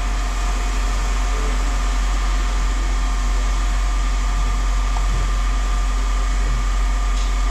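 Steady low drone of running machinery, with a faint steady whine over it and a few faint knocks.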